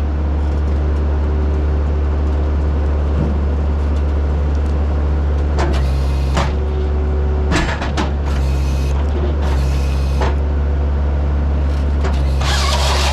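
Skid steer's diesel engine running steadily under hydraulic load while it powers a firewood processor. Several short hissing bursts, each about half a second, come through it about halfway and near the end.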